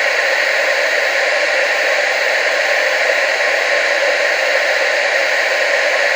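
Television static: a steady, loud hiss with no low rumble, unchanging throughout.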